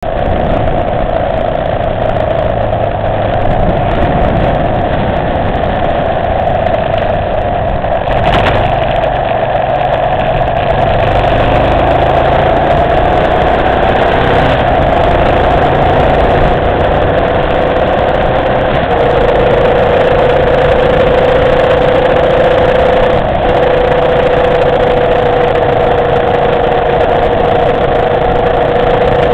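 Motorcycle engine running steadily, its hum easing slightly lower in pitch partway through and then holding. A brief sharp click comes about eight seconds in, and another later on.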